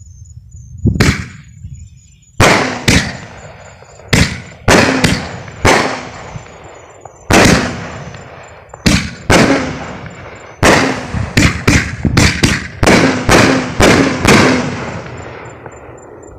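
Fireworks going off in a rapid series of about twenty loud, sharp bangs, some in quick clusters, each followed by a rolling echo that dies away.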